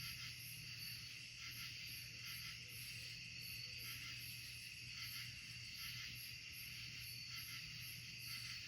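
Night insect chorus in woodland: a steady high trill, with a faster, higher chirping pulsing about three times a second over it. A faint low hum lies underneath.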